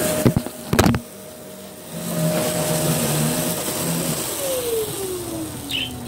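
Vacuum cleaner motor running with a steady whine, two sharp knocks about a second in, then the motor switched off and winding down, its pitch falling over the last couple of seconds.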